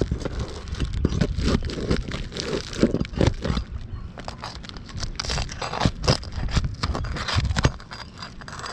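Flat pry bar scraping and prying under an asphalt roof shingle, with a rapid, irregular run of cracks and scrapes as the shingle is worked loose. The scraping stops near the end.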